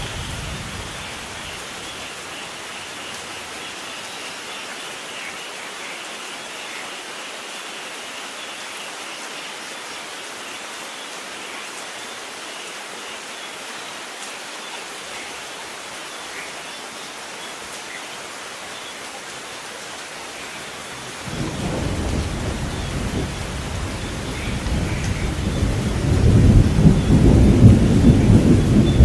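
Steady rain falling, with a roll of thunder starting suddenly about three quarters of the way through and building to a loud, deep rumble near the end.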